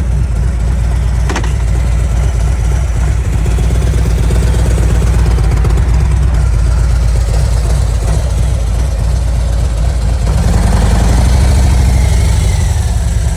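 Harley-Davidson Road Glide's V-twin engine running with a steady low rumble, swelling louder about ten seconds in, as the rider tests the bike after it struck debris and damaged its front wheel.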